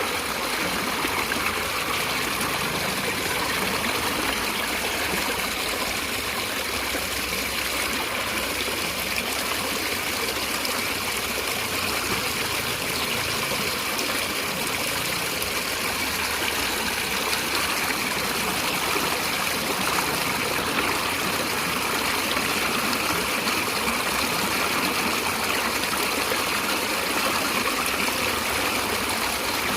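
Stream water flowing, a steady, even rush of running water with no breaks.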